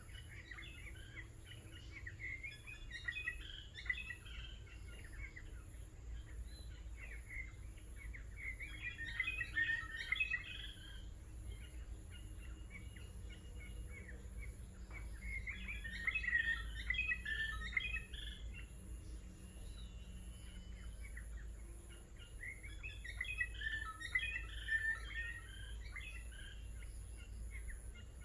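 Birds chirping in bursts of quick, busy chatter that come back about every seven seconds, over a steady low rumble.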